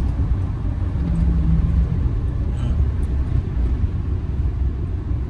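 Camper van driving at a steady cruising speed of about 50 mph, heard from inside the cab: a steady low rumble of engine and road noise.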